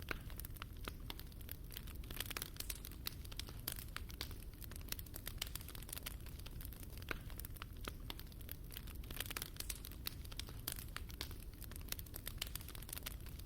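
Fire in a fireplace crackling: many irregular sharp pops and snaps over a low steady noise of the burning.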